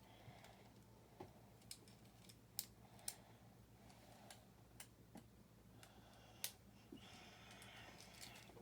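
Faint, scattered clicks of plastic building bricks being handled and pressed into place, about half a dozen over several seconds, with a soft rustle near the end.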